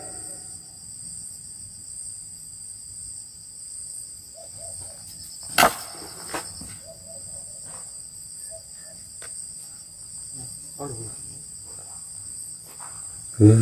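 Crickets chirring steadily in a night-time forest, a constant high-pitched chorus. About five and a half seconds in there is a single sharp click or snap, with a fainter one shortly after.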